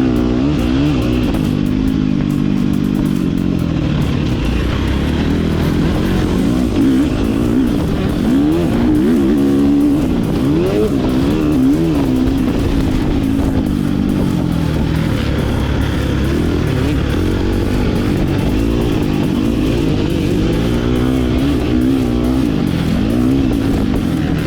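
Motocross dirt bike engine being ridden hard, its pitch rising and falling again and again as the throttle opens and shuts through gear changes, jumps and corners.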